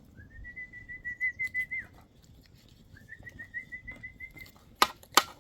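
Two long, steady whistled notes, each held about one and a half to two seconds with a slight waver, then two sharp clicks near the end.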